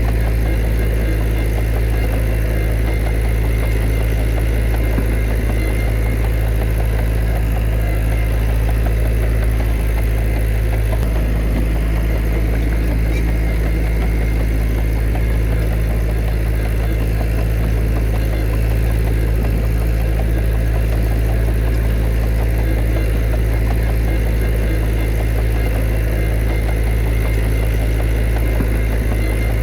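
Diesel engine of heavy earthmoving machinery running steadily, a low, even engine note with no revving or breaks.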